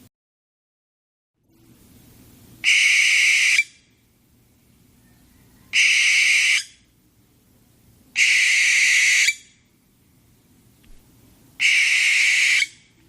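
An owl giving four harsh, hissing screeches, each about a second long and a few seconds apart.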